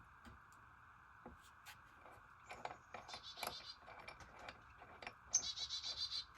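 A bird calling in quick runs of high repeated notes, twice, the second run louder and near the end, over scattered light clicks.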